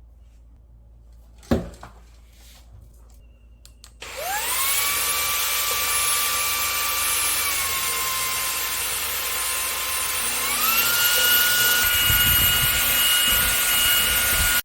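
Shark EvoPower DX cordless handheld vacuum: a sharp click about a second and a half in. Then the motor starts about four seconds in with a quickly rising whine and runs steadily. The whine dips slightly, then steps up to a higher pitch around ten seconds, with low rumbling near the end before it cuts off.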